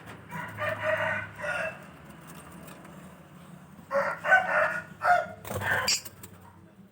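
Rooster crowing twice: once near the start and again about four seconds in.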